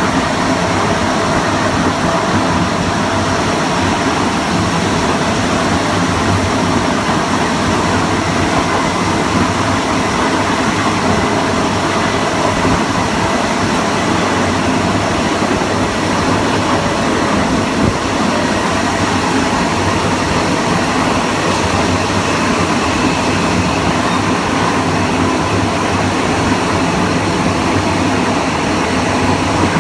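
Steady running noise of a Kawasaki M9 electric multiple unit at speed, heard from on board: continuous wheel and rail rumble with a faint steady high tone, and no rise or fall in pitch.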